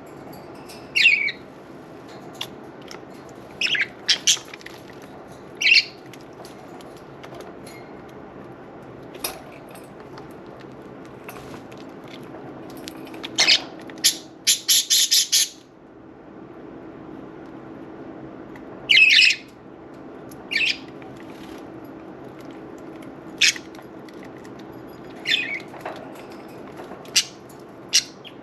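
Budgerigars giving short, scattered chirps and squawks over the steady trickle of a small water fountain, with a quick run of about five rapid bursts about halfway through.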